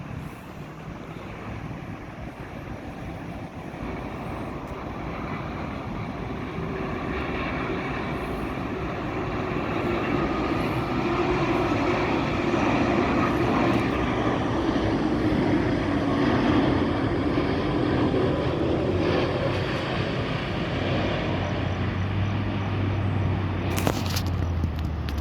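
Boeing 787-8 Dreamliner's jet engines on landing approach: a broad, rushing roar that grows louder over the first ten seconds or so and then holds steady. A sharp click comes near the end.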